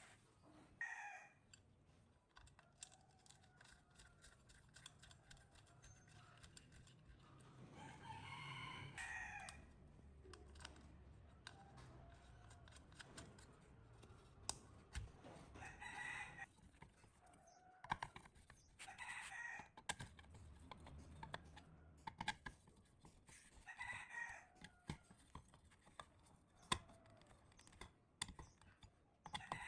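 Faint rooster crowing, repeated several times, each crow lasting about a second. Under it are many small, sharp clicks and taps.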